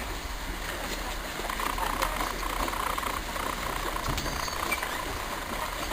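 An engine running steadily, with indistinct voices in the background.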